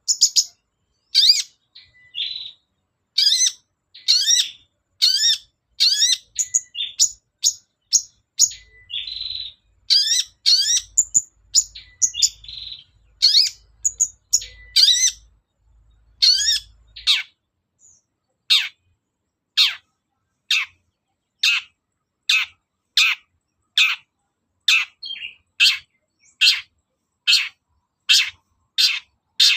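Long-tailed shrike singing: a fast string of short, varied high notes with a few harsh rasping bursts, then, from about halfway, an even run of sharp downward-sweeping notes, about one and a half a second.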